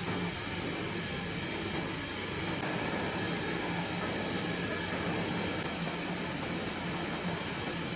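Steady, even mechanical hum and hiss of a CNC cutting machine running.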